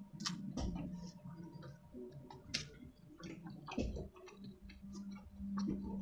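Close-miked chewing with wet mouth clicks and lip smacks, scattered irregularly, over a steady low hum.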